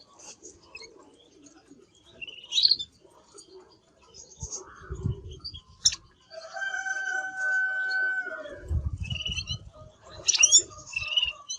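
A canary giving scattered short, high chirps and calls, with a held steady note of about two seconds in the middle and a loud burst of chirps near the end. Dull low thumps come just before and just after the held note.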